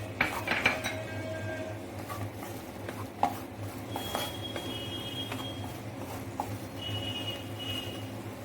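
A metal spoon clinking and scraping against a kadhai as chopped onions are stirred into oil. There is a quick cluster of clinks in the first second, then a single knock about three seconds in and another about six seconds in, over a steady low hum.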